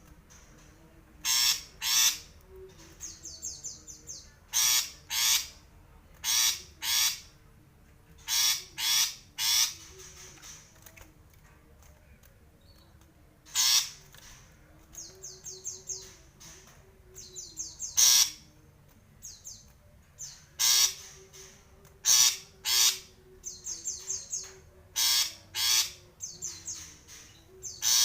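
Long-tailed shrike (cendet) giving harsh, scratchy calls, mostly in quick pairs repeated every couple of seconds, with softer rapid chattering notes in between.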